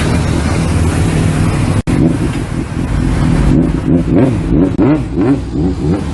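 Car engine and road noise, broken by a sudden cut just under two seconds in. From about three and a half seconds a wavering tone rises and falls quickly over and over on top of it.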